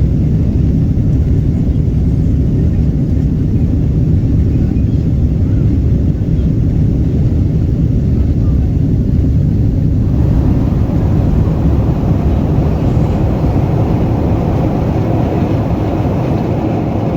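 Loud, steady rumble of jet engines and rushing air heard inside the cabin of a Boeing 777-200ER airliner. About ten seconds in, the sound grows a brighter hiss over the low roar.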